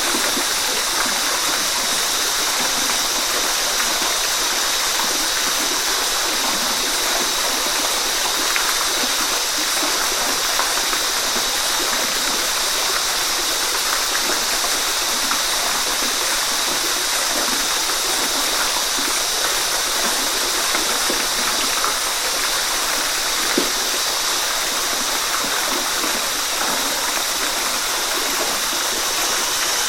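Waterfall: a steady, unbroken rush of falling, splashing water, with more hiss than rumble.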